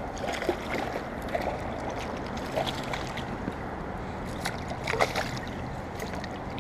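Steady rush of flowing creek water, with a few faint clicks and knocks here and there, the clearest about five seconds in.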